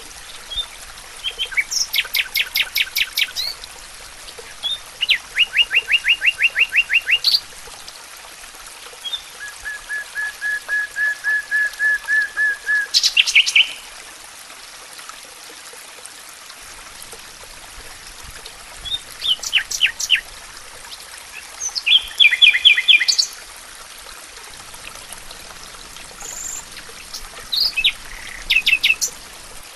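Songbirds singing short, rapid trills of repeated notes, several phrases a few seconds apart, each at a different pitch, over the steady rush of a stream.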